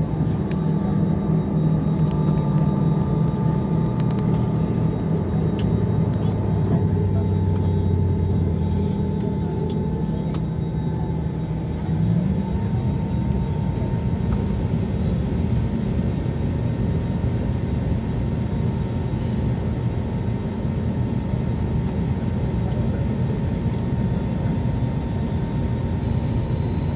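Airbus A320neo cabin noise before takeoff: a steady hum of the running engines and air conditioning. A few low humming tones shift in pitch about nine and twelve seconds in.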